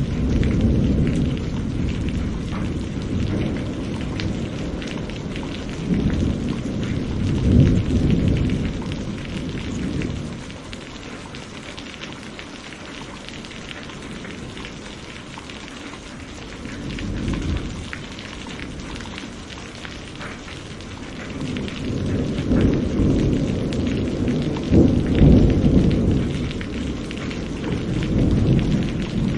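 Steady rain with rolling thunder: low rumbles swell and die away several times, near the start, about a quarter of the way in, and at length in the last third, with a quieter spell of rain alone in the middle.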